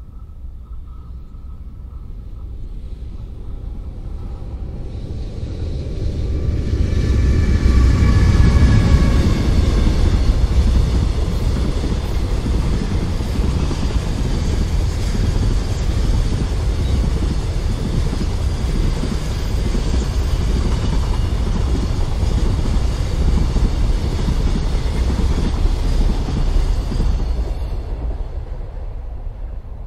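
EH500 electric locomotive hauling a long container freight train past at speed. The rumble builds as the locomotive comes in and passes, with a whine that falls slightly in pitch. Then comes the steady rumble and clatter of the container wagons' wheels on the rails, fading near the end as the last wagon goes by.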